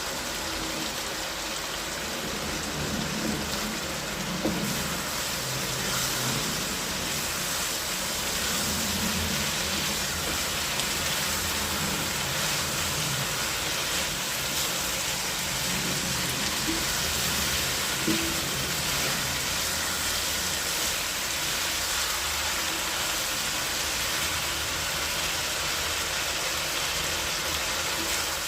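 Steady sizzling of chicken adobo cooking in a pan, an even hiss throughout.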